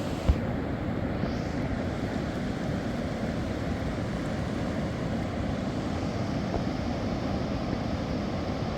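Steady rushing of a fast mountain river, a deep even noise without breaks, with one short low thump about a third of a second in.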